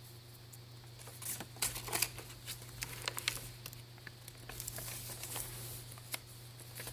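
Pages of a thick handmade paper journal being turned and handled: an irregular run of light paper rustles and soft taps, over a steady low hum.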